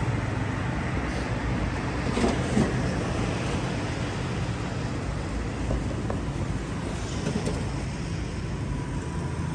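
Steady roadside traffic noise, with a couple of faint knocks a little over two seconds in.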